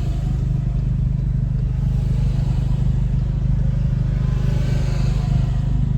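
Steady engine and road drone of a car driving, heard inside the cabin, with a slight swell of tyre or road hiss about two thirds of the way through.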